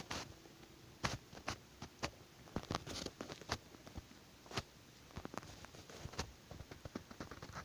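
Irregular light taps and clicks, scattered at uneven intervals, with a few louder knocks among them.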